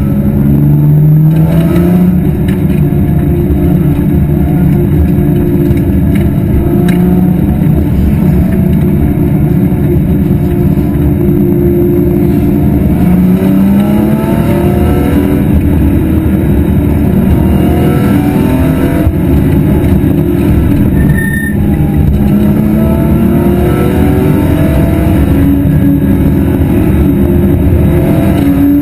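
BMW E46 M3 race car's straight-six engine at racing speed, its pitch climbing again and again as it pulls through the gears, with a brief drop near the 21-second mark, over a steady rush of wind and road noise.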